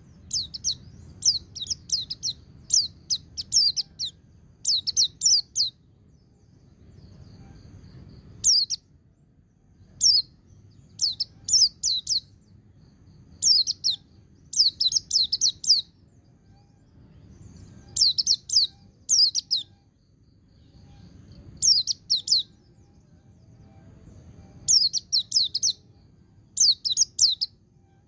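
White-eye (pleci) singing its ngecir song: bursts of quick, high chirping notes, each phrase lasting about a second, repeated with short pauses.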